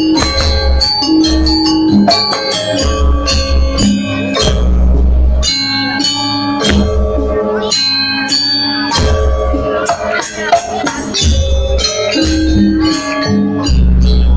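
Balinese gamelan music accompanying a janger dance: rapid struck metallophone notes over repeated deep drum and gong strokes.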